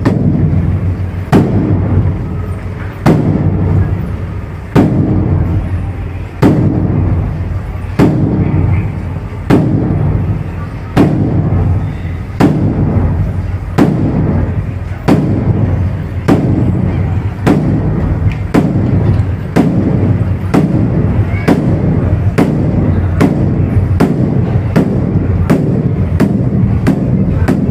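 Large mosque bedug drum beaten in a steady series of strikes, each with a deep, lasting boom. The strikes speed up steadily, from about one every second and a half to about two a second near the end.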